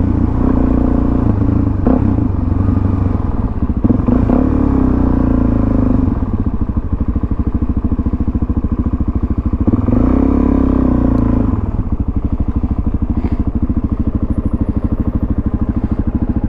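Suzuki DRZ400SM's single-cylinder four-stroke engine running through a Yoshimura exhaust with the baffle fitted. The revs rise twice, about four seconds in and again about ten seconds in, with steady lower-rev running in between.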